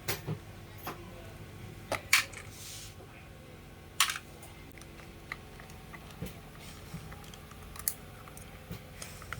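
Scattered light clicks and knocks of small parts and hand tools being handled during disassembly of a cordless rotary hammer, over a steady low hum.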